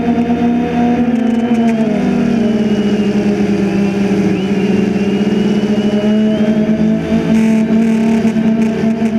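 DJI Phantom 2 quadcopter's motors and propellers humming in flight, a steady pitched drone whose pitch shifts slightly as the rotor speed changes.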